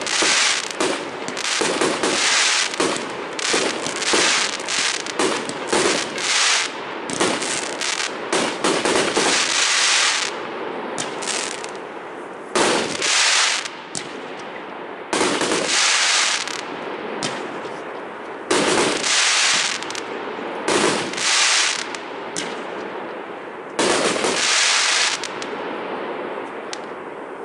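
Fireworks going off: a rapid run of bangs and crackles for about the first ten seconds, then separate bursts every second or two.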